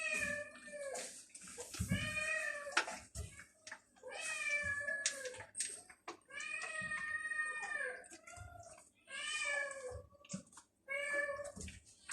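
Hungry stray cats meowing over and over, about six drawn-out meows with short pauses between them.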